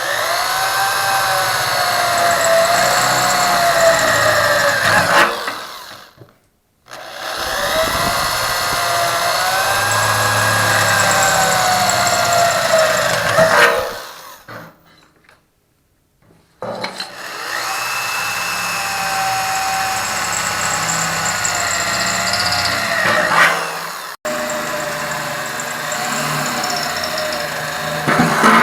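Electric drill with a slow-speed bit boring holes through a thin steel barrel wall. It runs in three long stretches of about six to seven seconds, stopping briefly between holes, with a wavering whine as the bit cuts.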